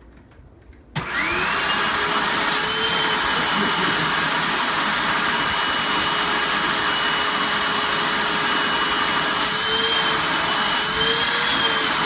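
Vacuum cleaner switched on about a second in, its motor whine rising quickly to a steady pitch, then running loudly; the pitch wavers briefly twice near the end as the suction load changes.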